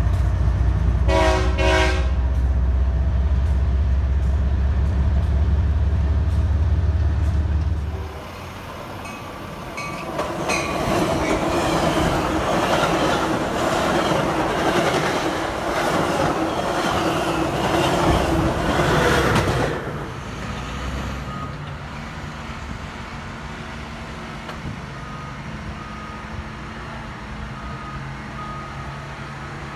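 Freight train of boxcars passing close by with a heavy, steady low rumble; a train horn sounds briefly about a second in. After a cut, a passing Metra bilevel commuter train gives rushing wheel-and-car noise for about ten seconds. Then comes a quieter steady background noise.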